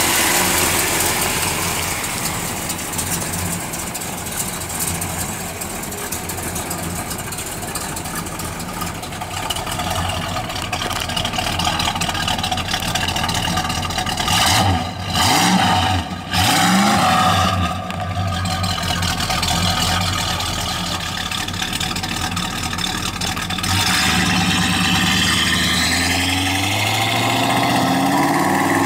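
1969 Dodge Coronet R/T's big-block V8 idling, revved briefly a few times about halfway through, then pulling away with the engine note rising near the end.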